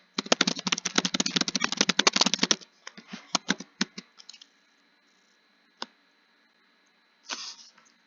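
Fast, continuous typing on a computer keyboard for about two and a half seconds, then a few slower separate keystrokes. A single click follows near six seconds, and a short burst of noise comes near the end.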